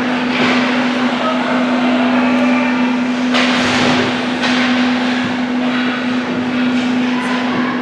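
Ice hockey rink sounds: skate blades carving and scraping on the ice, with a loud scraping spray about three seconds in as a skater stops hard, and a few sharp knocks of sticks or puck, over a steady hum.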